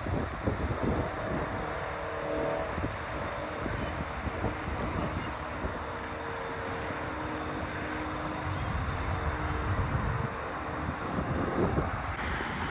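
Outdoor field noise: wind rumbling on the microphone over a steady wash of traffic from a nearby highway, with a faint steady hum.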